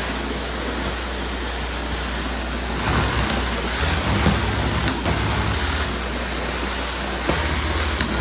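Tile and grout cleaning equipment running: a steady rush of vacuum air over a low hum. It gets louder and rougher about three seconds in, with a fluttering low throb, eases, then picks up again near the end.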